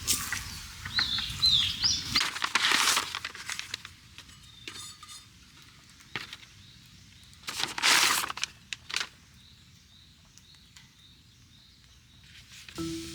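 A few bird chirps near the start, then two bursts of rustling and some light clicks and clinks from things being handled.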